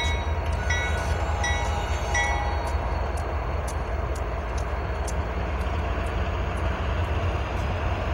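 A long freight train rolling past, its cars making a steady low rumble with regular clicks from the wheels. A short high-pitched tone repeats about every half second for the first two seconds or so.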